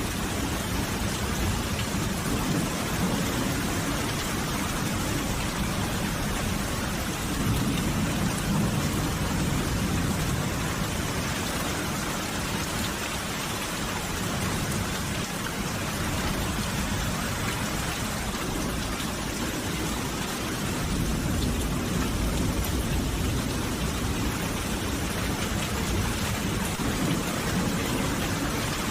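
Steady rain falling, as an even hiss with no break. A low rumble under it swells about a third of the way in and again past two thirds.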